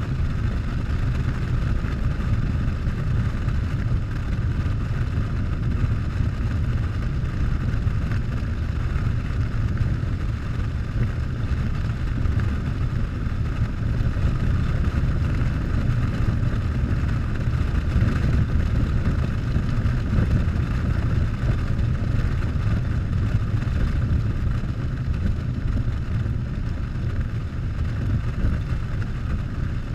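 Harley-Davidson Softail's V-twin engine running at a steady cruise under heavy wind rush on the microphone, with no revving or shifting.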